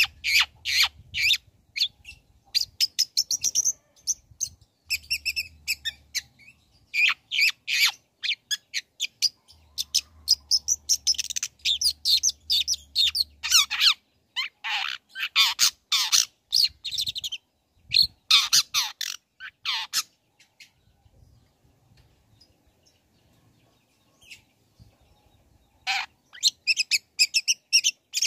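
Long-tailed shrike (cendet) singing: rapid runs of short, sharp, high chirps and harsh notes, broken by a quiet gap of several seconds about two-thirds through, with one lone call and then the song starting again near the end.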